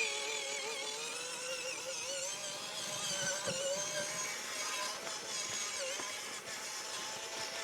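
Small RC car's electric motor and gearbox whining while it drives. The pitch wavers and drifts with the throttle.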